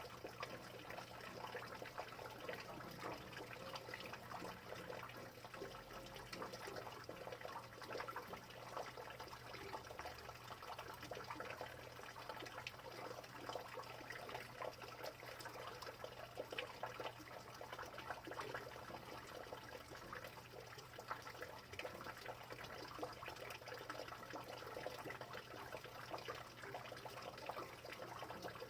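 Rain falling steadily: an even, dense patter of many small drops.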